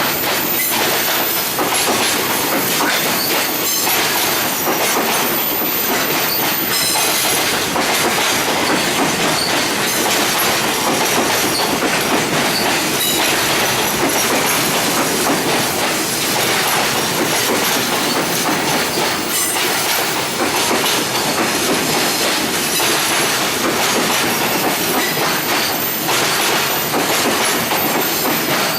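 Freight train's container wagons rolling past close by, the wheels clacking steadily over rail joints, with a high-pitched squeal from the wheels as the train runs in to the station.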